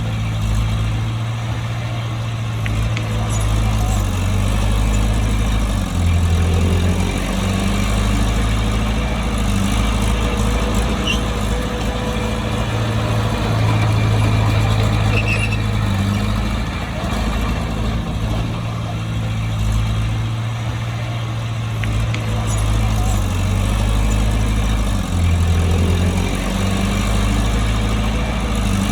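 Bulldozer's diesel engine running under load, its low drone stepping up and down in pitch every few seconds as the work changes.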